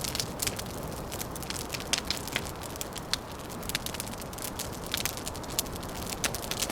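Wood fire crackling: many sharp, irregular pops and snaps over a steady low background noise.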